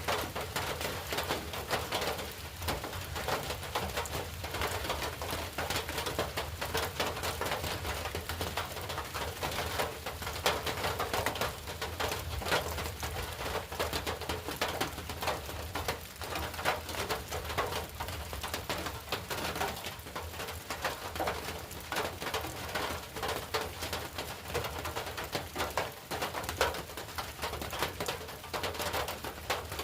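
Steady rain falling, a dense patter of drops. A bird, tagged as a dove-like cooing, calls at times.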